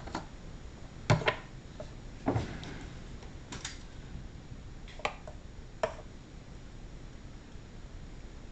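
A few scattered clicks and knocks of kitchen utensils and containers being handled, about six of them over the first six seconds, with a low steady room background between.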